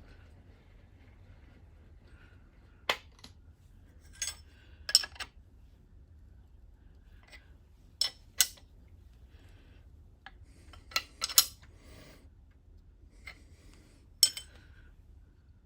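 Sharp metallic taps on a machining fixture on a milling machine table, about ten at irregular intervals, some in quick pairs: the fixture is being tapped into alignment while it is indicated in with a dial indicator.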